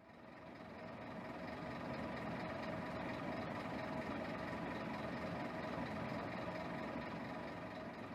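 Diesel engine of a 2008 Scania K270 bus, a 9-litre five-cylinder, running steadily with a low hum and fixed tones. It fades in over the first couple of seconds and begins to fade out near the end.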